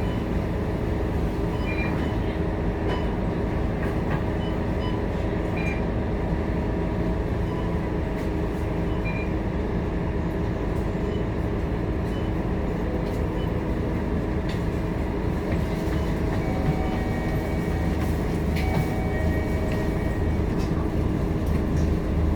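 Scania K230UB Euro V bus's diesel engine running steadily with road and body noise, heard from inside the bus cabin as it drives.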